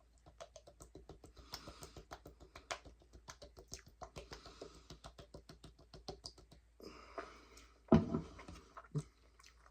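Close-up chewing: a quick run of small wet clicks and crunches, several a second, with a louder short mouth sound about eight seconds in.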